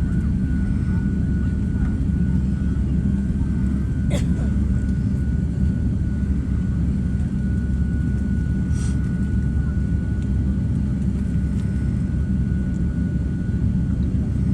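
Steady low rumble of jet airliner engines, with a thin steady high whine above it and two brief clicks about four and nine seconds in.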